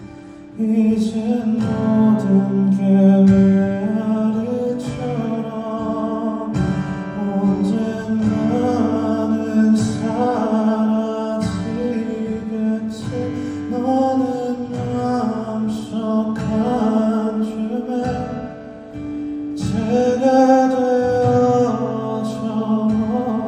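Live pop song: a male singer's voice carrying a slow melody over guitar and band accompaniment.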